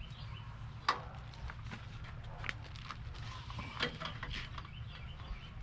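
Scattered light clicks and knocks of handling, with a sharper knock about a second in and another near four seconds, over a steady low hum.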